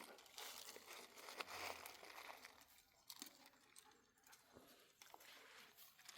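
Faint, irregular rustling and crackling, like something dry or crinkly being handled, with scattered small ticks.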